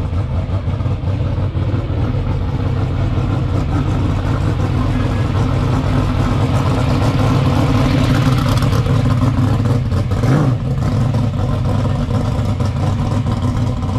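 Hot rod's engine running as the car drives up and past, growing louder as it nears, with a short sharp burst about ten seconds in.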